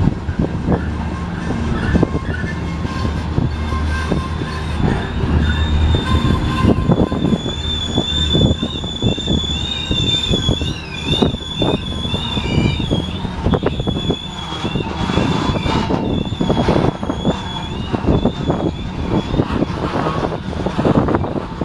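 Freight cars of a grain train rolling past, their steel wheels squealing against the rails in a high, wavering tone that is strongest from about four seconds in to about two thirds through, over a steady run of clicks and knocks from the wheels.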